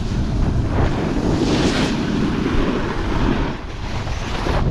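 Strong wind buffeting a GoPro action camera's microphone, a loud gusting rumble, with a brief rushing hiss about one and a half seconds in.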